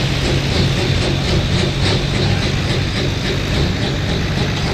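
Diesel pulling truck engine running steadily and loudly, with a regular pulsing in its upper sound.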